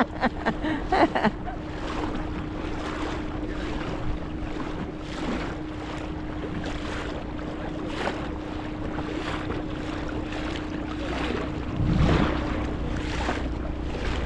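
A boat motor running at a steady pitch, with wind buffeting the microphone and water noise around the hull. The wind swells louder about twelve seconds in.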